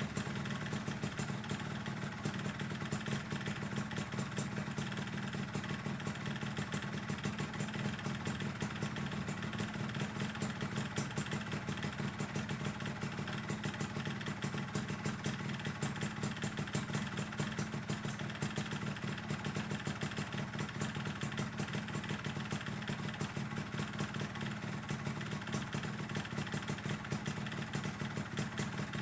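Yamaha RXZ 135's single-cylinder two-stroke engine idling steadily during warm-up, with rapid ticking from a leaking exhaust.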